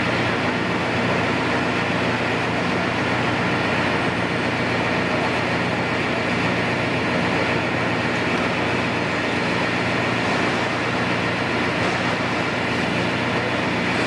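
Steady heavy engine noise, with no distinct impacts or changes.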